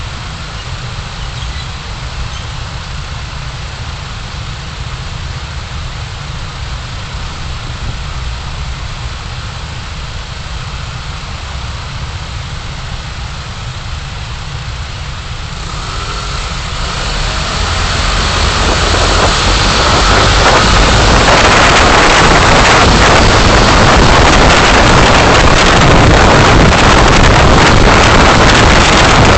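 Car interior noise picked up by a dashcam: a steady low engine and road rumble, then a broad rush that swells from about halfway through and settles into loud, steady road and wind noise as the car picks up speed.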